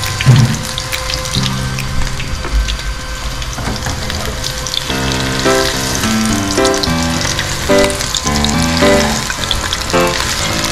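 Anchovy fritter (tortang dilis) in batter sizzling and crackling as it shallow-fries in hot oil in a frying pan, with a single sharp knock near the start. Background music with a clear melody comes in about halfway through.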